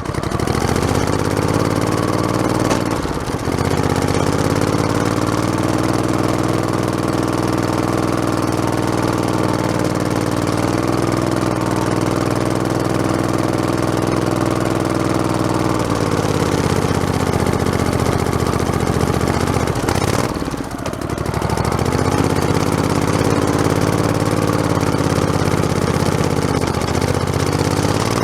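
Modified lawn tractor's small engine running as it drives along a trail. Its pitch sags and recovers briefly about 3 seconds in, falls away near the middle, dips again about two-thirds of the way through, then picks back up.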